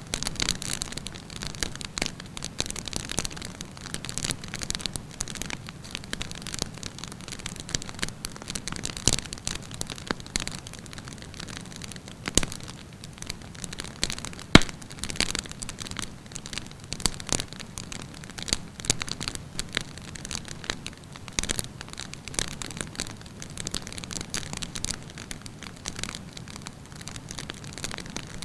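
Wood campfire burning with dense, irregular crackling and a steady hiss, with occasional louder pops, the loudest about halfway through.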